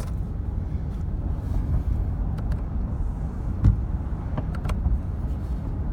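Steady low road and engine rumble inside the cab of a 2015 Ford F-150 pickup while driving, with a few light clicks and one dull thump about halfway through.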